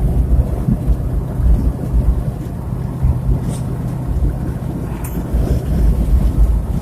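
Steady road noise of a car driving at highway speed: a low rumble of tyres and wind with a faint engine hum.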